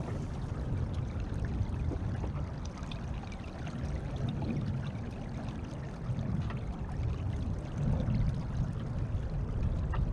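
Water rushing and splashing along the hull of a Beneteau First 20 sailboat under way.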